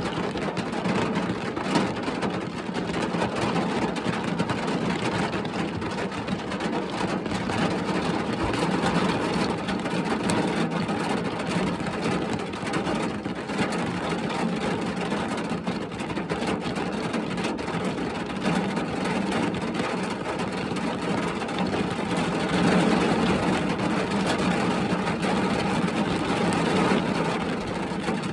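Rain falling on a car, heard from inside the cabin: a steady, dense patter with many fine drop clicks.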